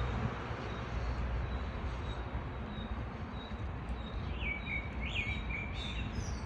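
Birds chirping over a steady background rumble. Short high chirps repeat throughout, and a few louder gliding bird notes come between about four and six seconds in.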